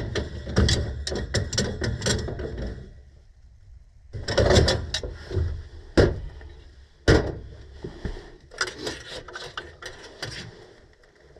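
Clicks, knocks and rattles of tools and metal parts being handled during a furnace gas-valve repair, coming in quick runs with two single sharp knocks about six and seven seconds in.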